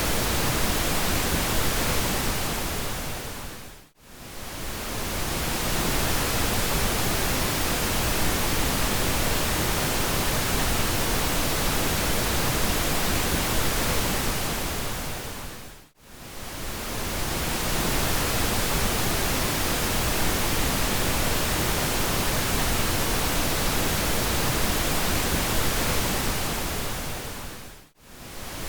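Steady pink noise, an even hiss across all pitches. It fades out to silence and straight back in three times, about every twelve seconds, where the recording loops.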